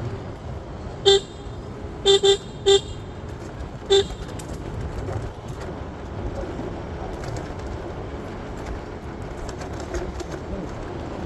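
Vehicle horn honking in street traffic: one short toot, then three quick toots, then a last one, over a steady background of traffic noise.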